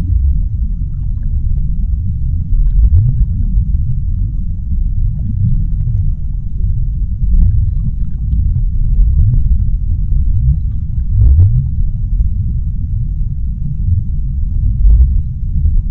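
Underwater ocean ambience: a deep, continuous rumble that swells and eases, with faint scattered clicks above it.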